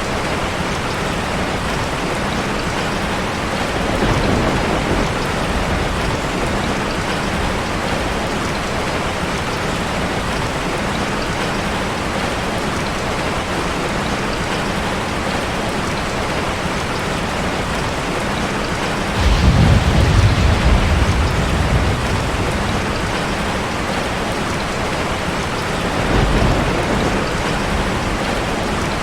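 Heavy rain drumming steadily on a car's roof and windows, with rolls of thunder: a short one about four seconds in, a louder one that starts suddenly about two-thirds of the way through and lasts a few seconds, and a smaller one near the end.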